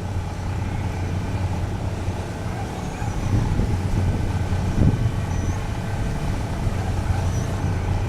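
Steady low engine drone, with a few faint short high chirps over it.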